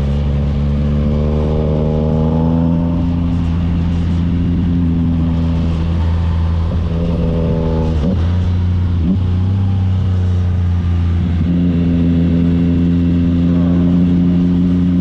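Yamaha MT-09's three-cylinder engine running steadily through an aftermarket AT2 exhaust. The engine note drifts slowly up and down, with a brief dip about eight seconds in.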